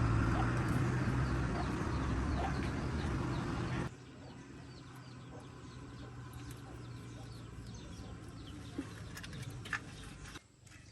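An engine running with a steady low hum that cuts off suddenly about four seconds in. After it, birds chirp in the background and a few sharp clicks come near the end.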